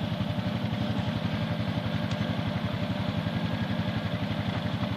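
Honda ATV engine idling steadily, an even, rapid putter with no revving.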